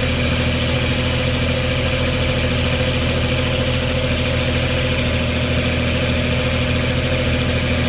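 1996 Jeep Cherokee XJ engine idling steadily.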